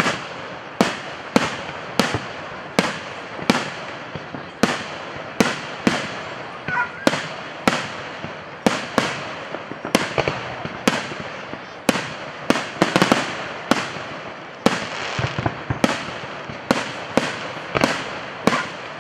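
Aerial fireworks shells bursting one after another, a steady run of sharp booms, one or two a second and sometimes in quick clusters, with crackle and rumble between them.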